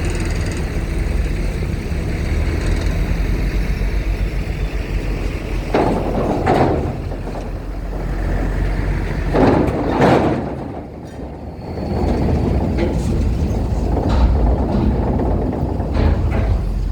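Heavy vehicles such as trucks and buses running at a roll-on/roll-off ferry ramp, a steady low engine drone with two louder surges about six and ten seconds in.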